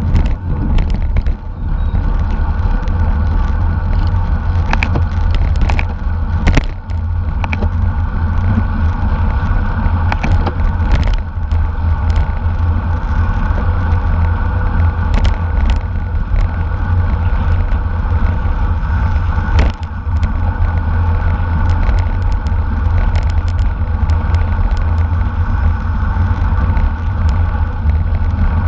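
Steady wind rumble on the microphone of a camera riding along in a bicycle race, with scattered clicks and knocks from the bike and road.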